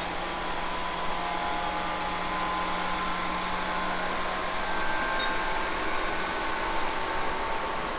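Tobu 10000 series electric train running, heard from inside motor car MoHa 12601: a steady rumble of wheels on the rails. A low hum fades out about halfway through, and there are a few faint high squeaks.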